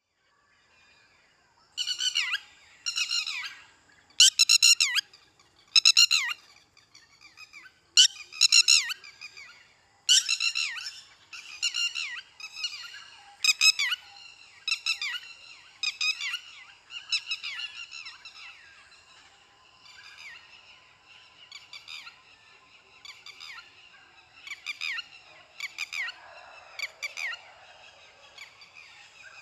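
A bird calling over and over: short bursts of high, squeaky notes, each sliding down in pitch, about once a second. The calls are loudest over the first ten seconds or so and come more faintly after that.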